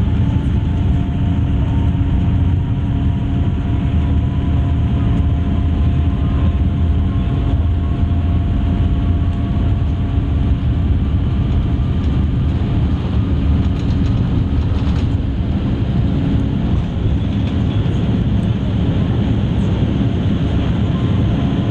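Boeing 787-8 airliner's jet engines heard from inside the cabin: a loud, steady deep rumble with a faint whine slowly rising in pitch.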